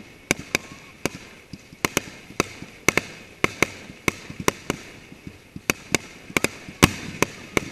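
Aerial fireworks shells bursting: a rapid, irregular string of sharp bangs, about two or three a second, over a steady hiss. The loudest bang comes near the end.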